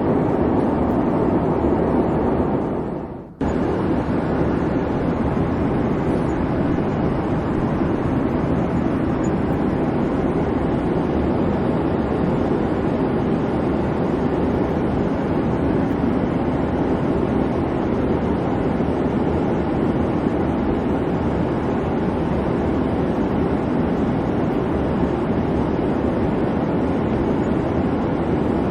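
Steady airliner cabin noise, the even rushing hum of engines and airflow heard from inside the cabin. About three seconds in it fades out and then cuts back in abruptly, a little brighter.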